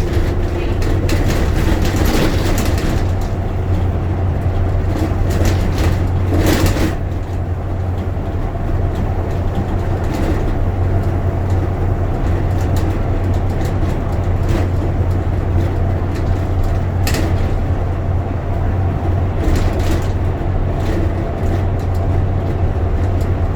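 Bus running along the road, heard from inside the passenger cabin: a steady low engine and road drone with a few brief rattles or clicks.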